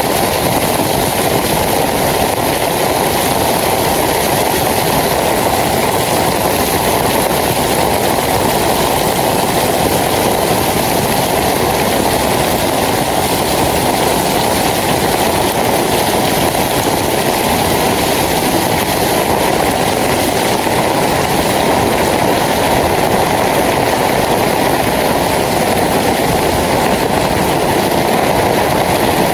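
Heavy rain falling steadily, a loud, even wash of noise with no let-up.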